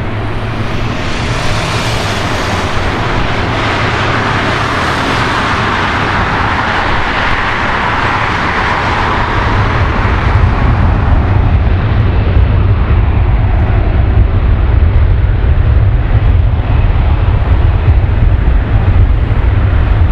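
Airbus A340-300's four CFM56 jet engines at takeoff power: a loud, steady roar. About halfway through, the high hiss fades while the low rumble grows louder.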